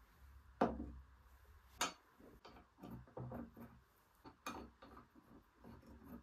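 Irregular light clicks and knocks of small objects being handled and set down, about eight in a few seconds, the sharpest about half a second and two seconds in.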